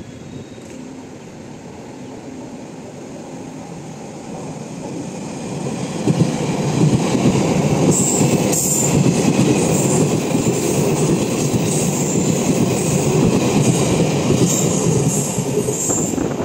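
Taiwan Railways electric train passing on the rails, its rumble growing louder over the first six seconds and then staying loud. From about halfway, a thin high-pitched squeal from the wheels comes and goes over the rumble.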